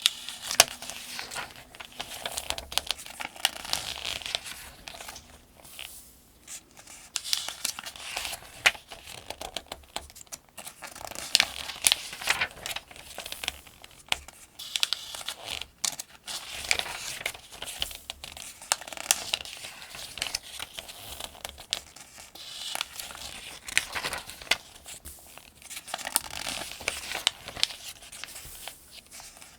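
Pages of a Farmers' Almanac being turned one after another at a steady pace, about one every three to four seconds. Each turn is a crinkling paper rustle with sharp little snaps, followed by a short quieter gap.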